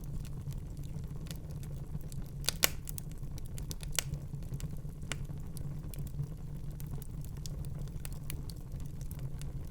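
Wood fire burning in a fireplace: a steady low rumble of the flames with irregular crackles and pops, the loudest pop about two and a half seconds in and another about a second later.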